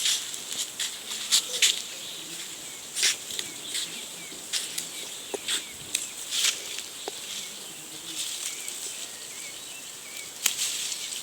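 Irregular rustling and crackling of leafy plants being handled, about one or two sharp rustles a second, over a steady high hiss of outdoor background.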